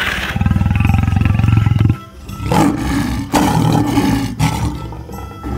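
Lion roaring: two long, deep roars, the first lasting about a second and a half, the second starting about two and a half seconds in.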